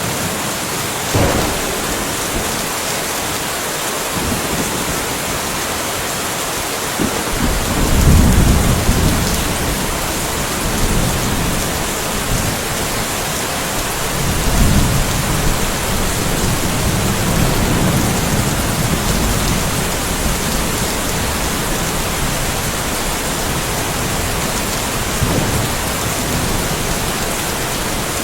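Steady rain falling, with thunder: a short sharp clap about a second in, then long low rolls of thunder about eight seconds in and again around the middle.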